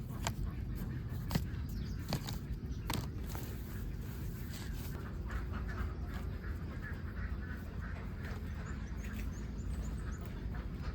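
Flock of ducks quacking over a steady low rumble, with a few sharp clicks in the first three seconds.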